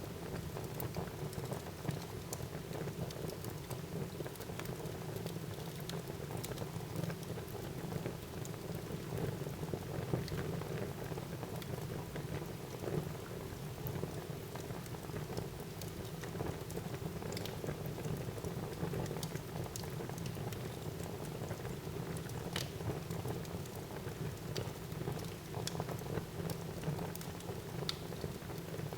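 Fire burning in a fireplace: a steady low rush of flames with frequent small crackles and pops scattered throughout.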